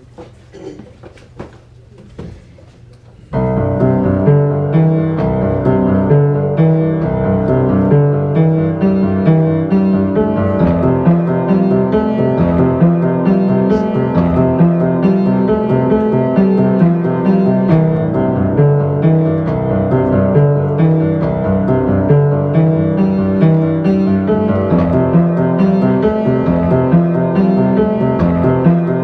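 Solo piano starting suddenly about three seconds in, after a few soft clicks of room noise, and playing a continuous stream of notes over a repeating lower figure.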